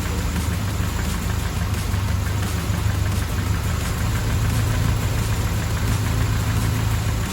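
Mercedes-Benz W124 230E's four-cylinder petrol engine idling steadily.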